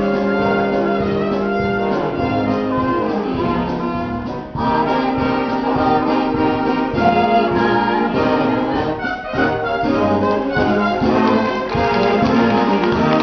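Pit orchestra playing a brassy show-tune dance section, with trumpets and trombones prominent; the music dips briefly about four and a half seconds in, then carries on.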